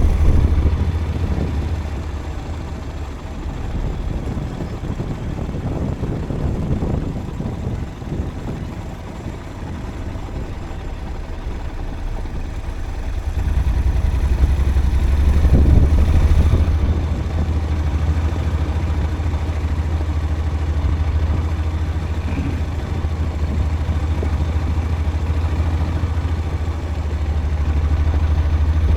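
Vehicle running along a road: a steady low engine and road rumble that swells and eases.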